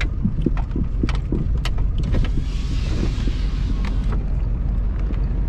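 Steady engine and road rumble heard from inside a truck's cab while driving on snow, with many small rattles and knocks. About two and a half seconds in, a hiss comes up for roughly a second and a half, then stops.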